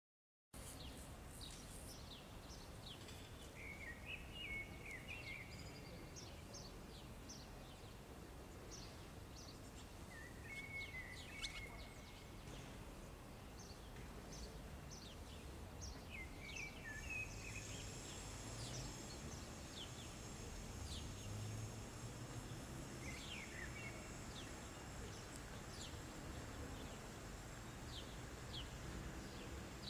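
Small birds twittering: scattered short chirps with a brief warbled song phrase every several seconds, over a steady low background rumble.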